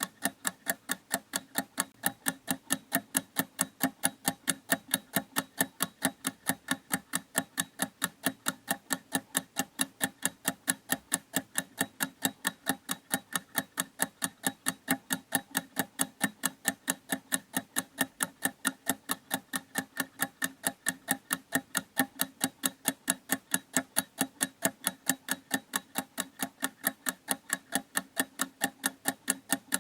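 Clock ticking steadily, with quick, evenly spaced ticks several times a second.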